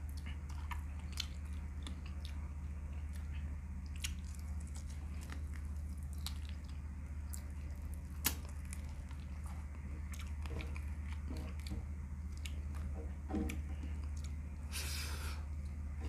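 A person chewing food with the mouth close to the microphone: wet mouth clicks and smacks come and go throughout. A steady low hum runs underneath, and a short hiss comes near the end.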